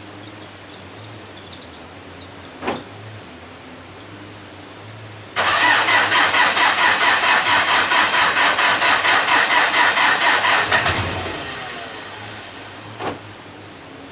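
Hyundai D4BH four-cylinder diesel engine being started cold: about five seconds in, the starter cranks it in a loud, evenly pulsing rhythm for about five seconds, then the sound dies away. A sharp click comes before the cranking and another near the end.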